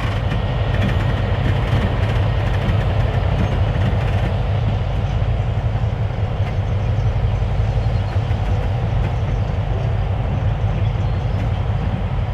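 Diesel switcher locomotives running as a short train rolls along the rails, a steady, loud engine sound.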